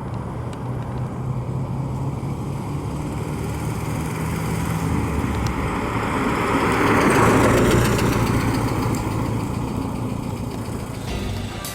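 1976 Volkswagen Westfalia bus's air-cooled flat-four engine running as the bus drives by, growing louder to a peak about seven seconds in, then fading away.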